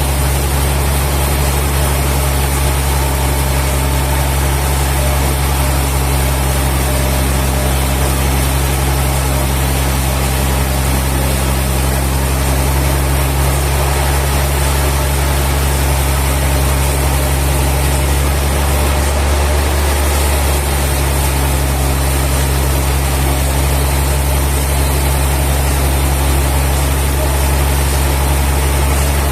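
Heavy sawmill machinery running steadily: a constant low hum with an even hiss over it, unchanging throughout.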